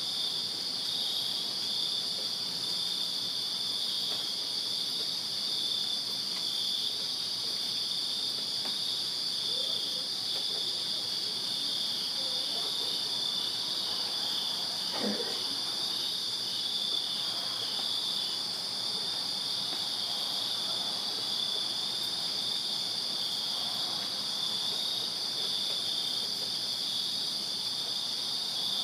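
Crickets chirping in a steady, dense chorus: a continuous high trill with a pulsing chirp just below it.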